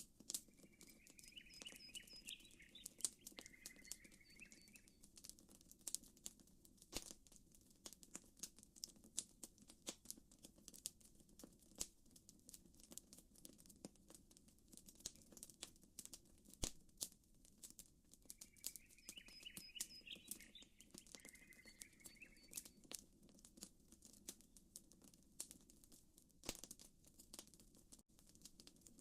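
Campfire crackling and popping with frequent sharp snaps over a soft, steady low wash of lapping water. A short chirping bird call comes twice, about a second in and again around two-thirds of the way through.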